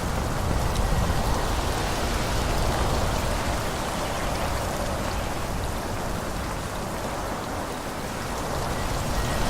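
Wind blowing through forest trees: a steady rushing of leaves with a low rumble, easing a little and then swelling again near the end.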